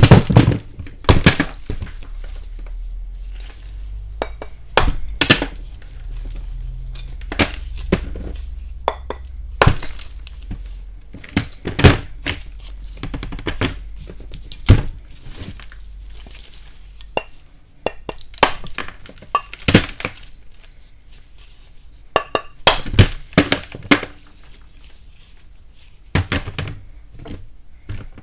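Lumps of chalk being snapped and tapped: a string of sharp, irregular cracks and knocks, some in quick clusters, with crumbling between them.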